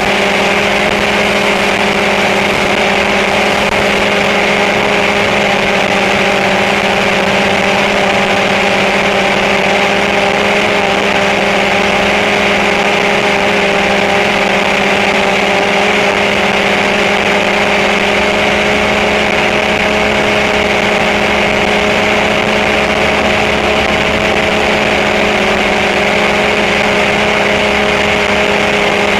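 Drone motors and propellers buzzing steadily in flight, a loud even hum that holds one pitch throughout.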